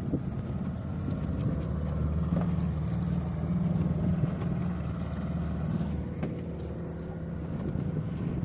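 A fishing boat's engine running steadily, a low even drone.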